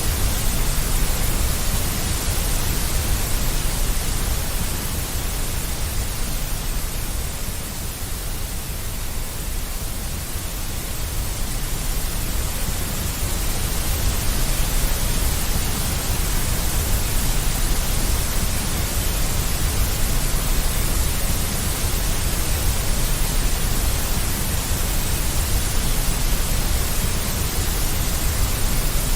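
Deep white noise: a steady, even hiss weighted toward the low end, easing slightly for a few seconds about eight seconds in.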